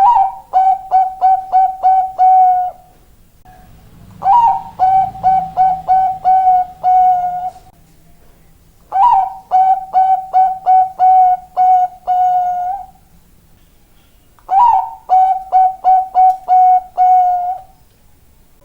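Zebra dove of the Bangkok song strain cooing its song four times. Each phrase is a quick run of short clipped coos ending in one longer held note, with a pause of a second or two before the next.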